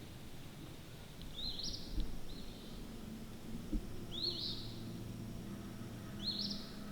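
Small songbird calling in the woods: a few short, high chirps, each rising with a quick hook, about two seconds apart, over a faint low hum.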